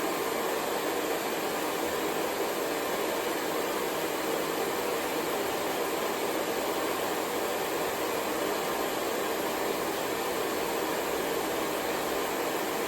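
Hair dryer blowing, a steady even whoosh of air with no change in pitch or level.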